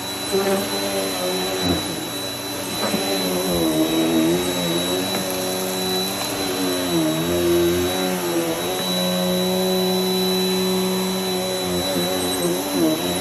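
Vacuum cleaner running while being pushed over the floor: its motor drone dips in pitch and recovers again and again, then holds steady for a few seconds before dipping once more, over a constant thin high whine.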